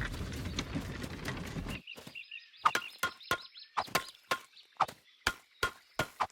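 Cartoon sound effects: a low rumbling rush for nearly two seconds, then a run of sharp knocks, about two to three a second.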